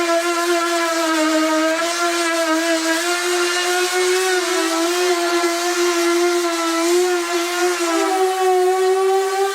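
A small motor whining steadily at one high pitch, the pitch wavering slightly and stepping up a little about eight seconds in.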